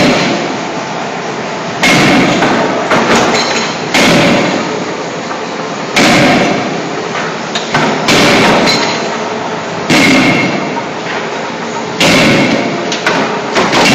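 CNC hydraulic closed-die forging hammer striking hot scissor blanks: heavy blows about every two seconds, with lighter knocks between them, over a steady hydraulic and shop noise.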